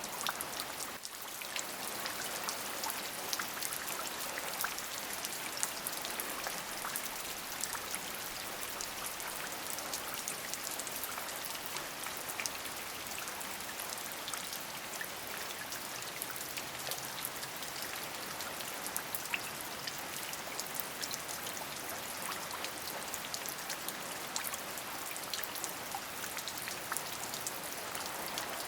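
Steady rain: many separate drops ticking over an even hiss, with a brief dip in loudness about a second in.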